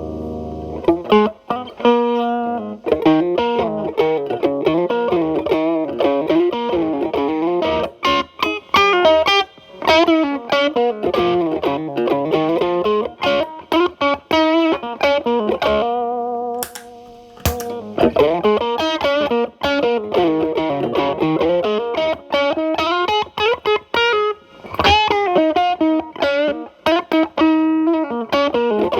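Electric guitar, a Telecaster played through an MI Audio Crunch Box distortion pedal into a Marshall Valvestate amp's clean channel. It plays blues-style single-note lead lines with string bends and vibrato, and holds one note about halfway through. The guitar's volume is rolled back so the pedal's drive cleans up.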